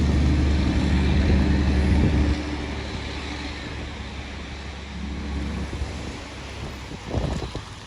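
A truck engine pulling on the hill, running loud with a low steady drone; about two seconds in it drops off suddenly and then fades as the truck moves away. A brief louder noise comes near the end.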